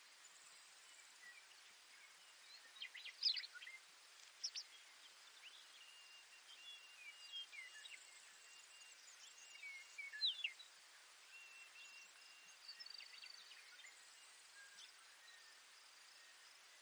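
Faint Baird's sparrow song over a steady background hiss: a few short, sharp high notes about three, four and a half and ten seconds in, with thin, level trilled tones running between them.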